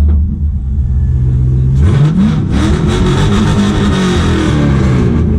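LS V8 engine of an S13 Silvia drift car idling, then revved about two seconds in: the pitch rises and the engine holds higher revs for a few seconds before dropping back toward idle near the end.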